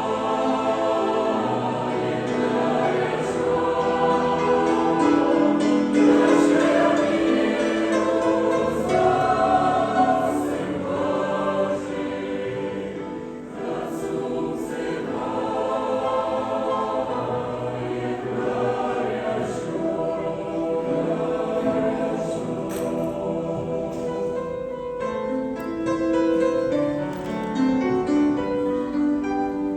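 Choir singing a song, with sustained sung notes that change pitch every second or so.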